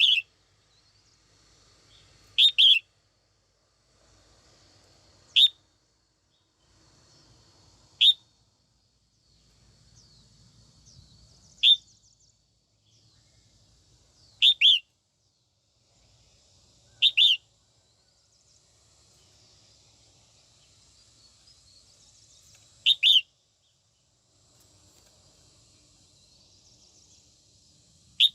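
Female red-whiskered bulbul giving short, sharp calls every few seconds, some single and some in quick pairs, over a faint high hiss.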